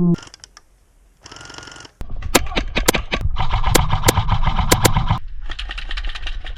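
Airsoft guns firing on full auto. After a short lull, a loud continuous clatter starts about two seconds in, full of sharp cracks, with a steady motor whir under it for a couple of seconds in the middle.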